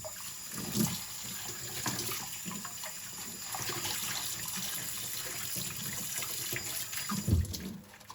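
Kitchen tap running into a sink while ceramic bowls are rinsed under it, with light knocks of the bowls. A louder low clunk comes about seven seconds in, and the water shuts off just after.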